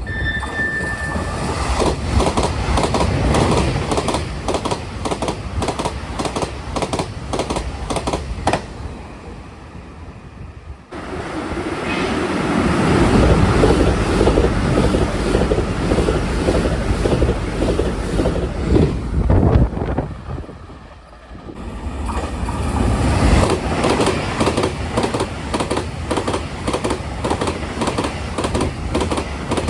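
Taiwan Railway express trains passing at speed, about 130 km/h, with a rapid clickety-clack of wheels over rail joints. Three separate passes, each cut off suddenly; the second is heavier and lower in tone.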